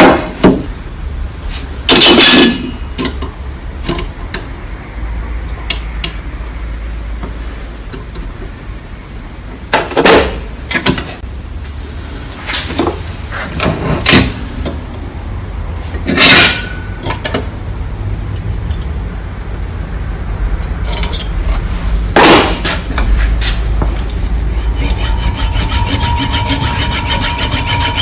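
Hand-tool work on the campfire frying pan: rubbing and scraping strokes with several sharp knocks between them. Near the end it turns into a fast, even rasping rhythm with a thin steady whine, like sawing, filing or sanding.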